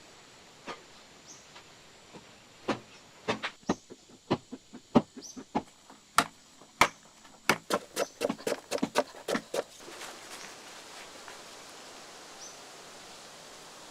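A run of sharp knocks or strikes, irregular and a few a second, starting about three seconds in and stopping near the ten-second mark, followed by a steady hiss.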